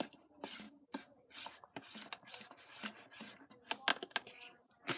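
Irregular rubbing, scraping and clicking of objects being handled at close range, with a few sharp clicks about four seconds in.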